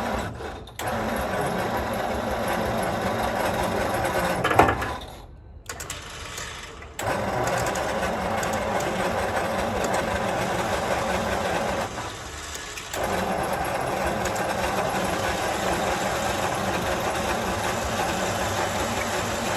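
1955 Ford grain truck's starter motor cranking with the truck in reverse gear, bumping it backwards because the front wheels are tight. It cranks in three long runs with brief breaks, and a sharp clack ends the first run.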